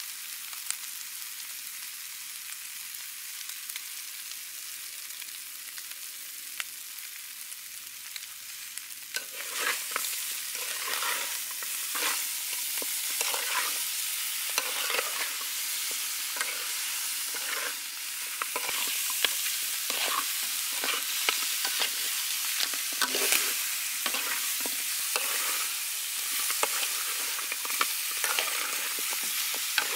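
Muscovy duck pieces in spice paste sizzling as they fry in a wok. From about nine seconds in, a spatula stirs them in repeated scraping strokes against the pan over the steady sizzle.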